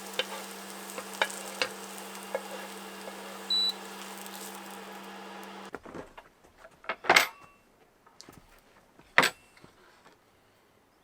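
A steady electric hum with light ticks and one short high beep, cutting off about halfway through; then several sharp clattering knocks, two of them loud.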